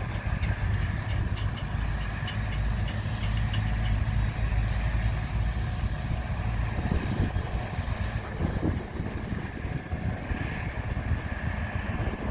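Diesel engines of large harvest machinery running steadily, with a deep rumble and a constant high whine, and a few light ticks in the first few seconds.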